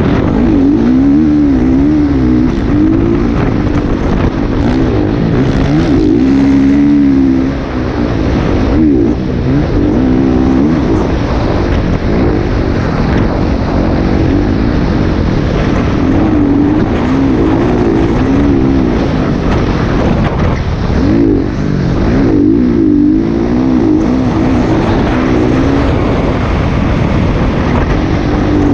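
Motocross bike engine running loud, its pitch rising and falling constantly with the throttle. It eases off briefly twice, about a quarter of the way in and again about three-quarters through.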